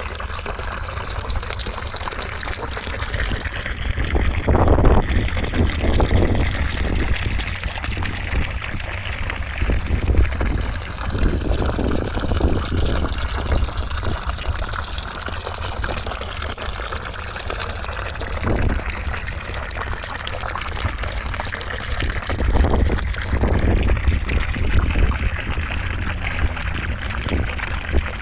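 Steady rushing white noise with a deep rumble underneath and slow sweeping shifts in its tone, swelling louder briefly a few times.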